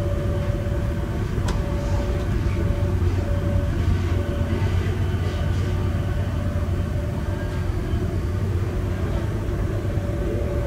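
Steady rumble of a moving passenger train heard inside the carriage, with a steady hum running over it and a single sharp click about a second and a half in.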